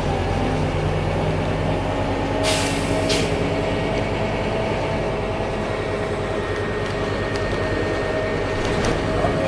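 Scania K310 bus engine running with a steady drone. A short hiss of compressed air comes about two and a half seconds in and lasts under a second.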